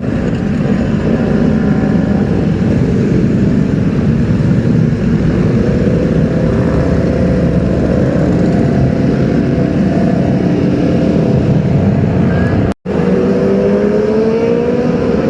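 Large sport-bike engines running loudly amid street traffic, with a dense rumble. The sound breaks off for a moment about 13 seconds in, then an engine note climbs and wavers as a bike is revved.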